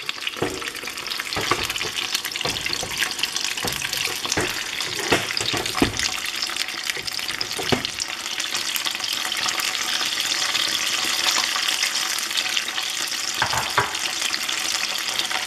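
Batter-coated basa fish strips frying in hot oil in a pan: a steady, dense sizzle and crackle, with scattered sharper pops in the first half.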